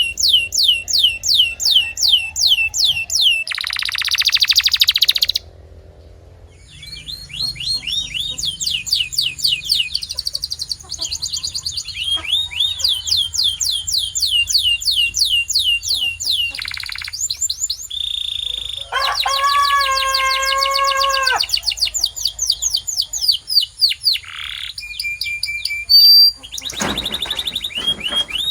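Canary singing a long song of fast trills, each made of quickly repeated downward-sliding notes. A harsh buzzing phrase comes a few seconds in, and a lower, fuller note is held for about two seconds in the middle.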